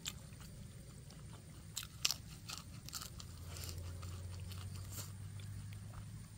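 A person biting and chewing fresh lettuce leaves, with crisp crunches. The sharpest crunch comes about two seconds in, followed by several smaller crunches as the mouthful is chewed.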